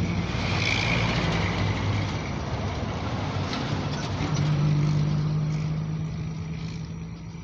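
Car engine running with a steady low hum and a wash of noise, swelling slightly midway and easing off near the end.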